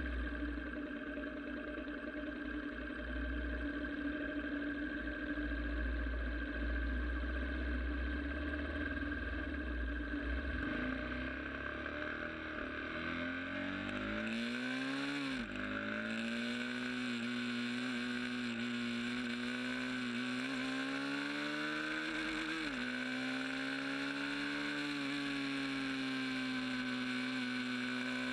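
Sport motorcycle engine running on the move, its pitch rising and falling with the throttle, with sudden drops about halfway through and again later as gears change. Low wind rumble on the microphone for the first ten seconds or so.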